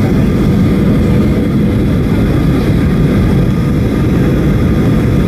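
Steady cabin noise inside a Boeing 737-800: the hum of its CFM56 jet engines and the rush of air, heaviest in the low end, with a few faint steady tones above it.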